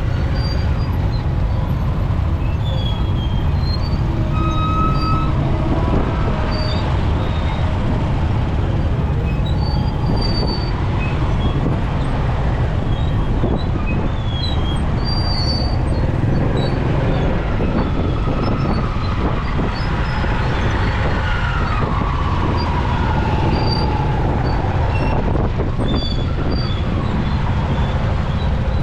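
Riding a motorcycle through city traffic: a steady rumble of wind and engine and road noise, with short high squeaks from the traffic and one drawn-out falling tone about two-thirds of the way through.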